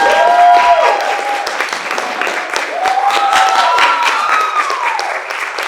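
Theatre audience applauding with dense clapping, and several voices whooping in rising-and-falling calls over it.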